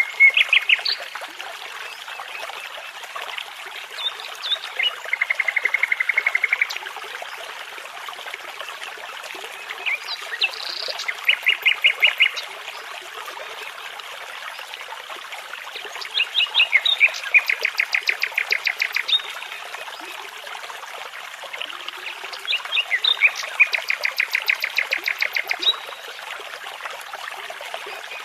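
Nightingale singing five song phrases about six seconds apart, each built from fast runs of repeated notes, over the steady rush of a babbling brook.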